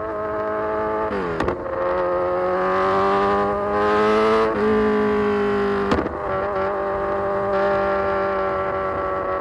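A Kawasaki Z900's inline-four engine through an Austin Racing full exhaust, under way. Its note drops sharply about a second in, then climbs steadily for about three seconds as the bike accelerates, dips a little, and holds nearly steady to the end.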